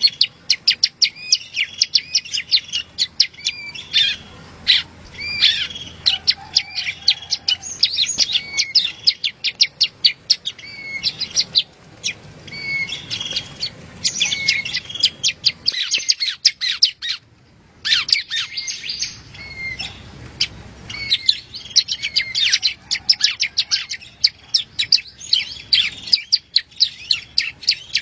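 Prenjak rowo (yellow-bellied prinia) calling: a rapid, continuous series of sharp, high chirps, broken by a brief pause about 17 seconds in.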